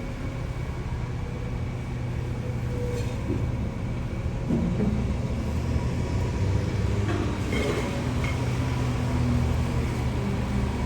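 Steady low mechanical drone of a city street, with a few faint clicks about two-thirds of the way through.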